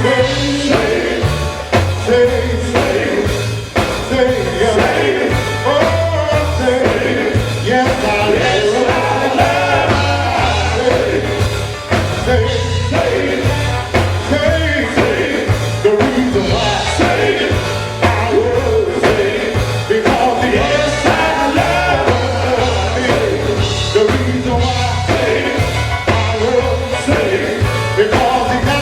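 Gospel group singing live with a backing band, drawn-out vocal lines over a steady bass and drums.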